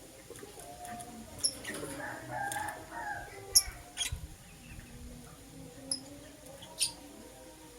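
Lovebirds giving a handful of short, sharp, high chirps, with a longer, lower drawn-out call from about two to three seconds in.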